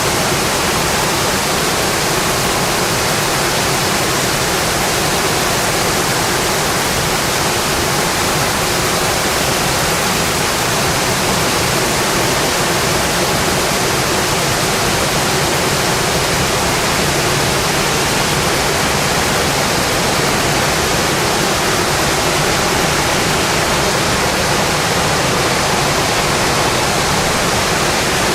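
Rain falling steadily on a metal roof: a dense, even hiss that does not let up.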